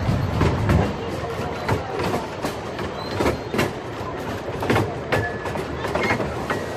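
Narrow-gauge railway carriage running along the track, heard from aboard an open carriage: a steady rumble with irregular clicks and knocks from the wheels over the rail joints, heavier low rumble in the first second.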